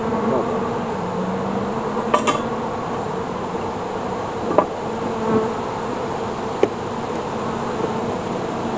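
Honeybees buzzing around an open hive, a steady hum with a few sharp clicks and knocks, about two seconds in, again at about four and a half seconds and near seven seconds, from hive frames and equipment being handled.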